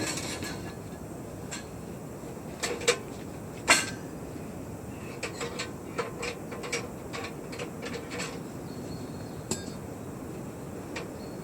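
Irregular knocks and light clinks of hard objects being handled, with a louder knock about four seconds in, over a steady hiss.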